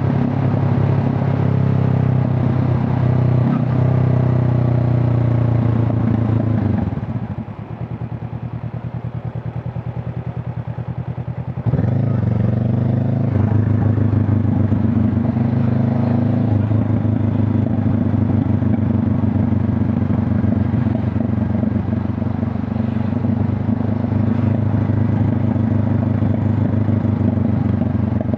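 Honda CB500 Hornet's parallel-twin engine and exhaust riding along. It runs steadily at first. About seven seconds in the throttle closes and the note drops and falls in pitch. A few seconds later the throttle opens again sharply and the engine settles into a steady cruise.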